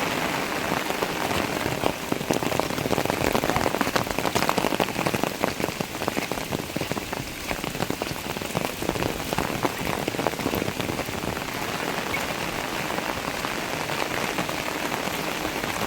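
Heavy monsoon rain falling, a dense steady hiss with many separate drops striking close by; it grows louder for a few seconds about two seconds in, then settles.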